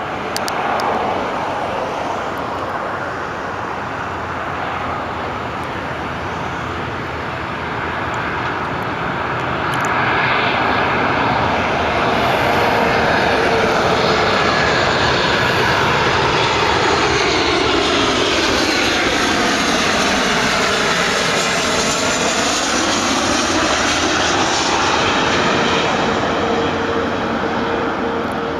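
Boeing 737-800 jet on final approach, its CFM56-7B turbofan engines giving a steady rushing whine. It grows louder about ten seconds in, and a sweeping, phasing swoosh runs through the noise as the jet passes closest, about twenty seconds in.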